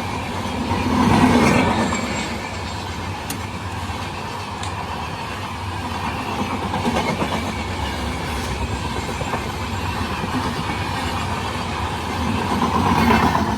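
Passenger train running past at speed, wheels clattering over the rail joints over a steady rumble; the noise swells about a second in and again near the end.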